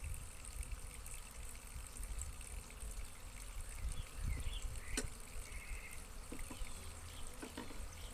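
Faint hum of honeybees around an opened hive over a low, uneven rumble, with one sharp click about five seconds in.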